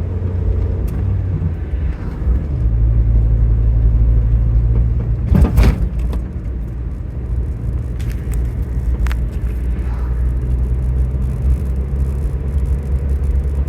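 A car driving, heard as a steady low engine and road drone whose engine note steps up slightly about two and a half seconds in. A loud knock comes about five and a half seconds in, with a couple of fainter clicks a few seconds later.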